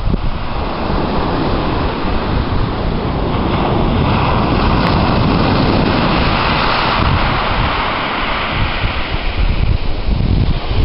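Small waves breaking and washing over a shingle beach, swelling to a rushing hiss partway through, easing off, then building again near the end. Wind buffets the microphone with a gusty low rumble.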